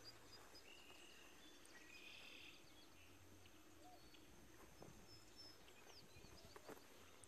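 Near-silent outdoor ambience with a few faint, short bird chirps in the distance.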